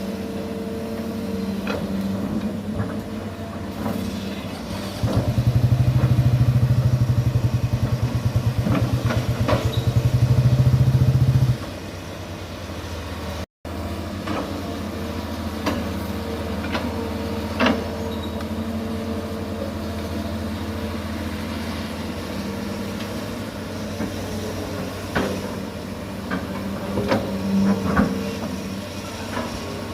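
Komatsu PC200 long-arm excavator's diesel engine running steadily, going up to a louder, deeper drone for about six seconds from about five seconds in as the machine works hard to free itself from peat mud, then settling back. Sharp metallic clanks come now and then.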